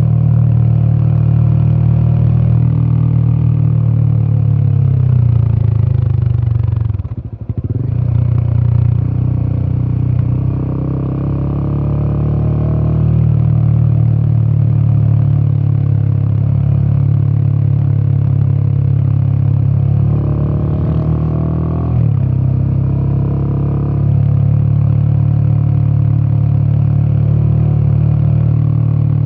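Royal Enfield Himalayan 450's single-cylinder 450cc Sherpa engine and exhaust pulling on the road. About seven seconds in the sound briefly drops off as the throttle closes for a gear change, then the pitch climbs as it pulls again; there is another change in engine note a little past twenty seconds.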